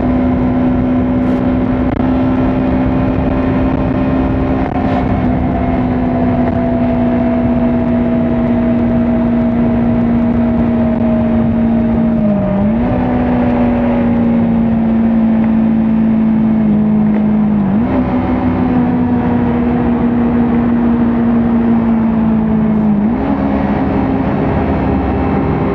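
Kawasaki Ninja 400 parallel-twin engine running steadily at speed, heard from on board over a steady rush of wind and road noise. Its pitch drifts slowly down and dips briefly three times, each time coming straight back up.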